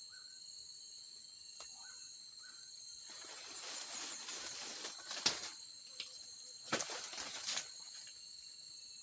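Steady high-pitched insect drone from crickets or cicadas, with four short bird chirps in the first few seconds. From about three seconds in comes a rustling with a few sharp clicks or knocks.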